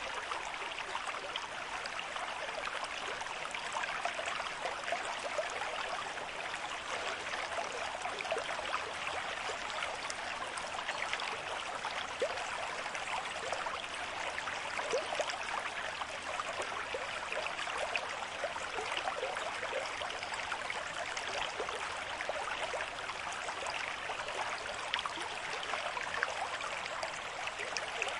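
River stream with moderate flow, water running and splashing over stones in a steady rush with a dense patter of small splashes.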